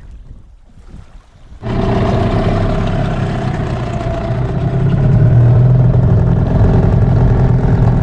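Motorboat engine running steadily at a loud, even drone, cutting in abruptly about a second and a half in after faint wind and water noise.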